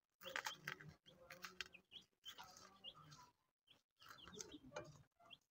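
Near silence with faint, scattered bird chirps and a few soft small clicks.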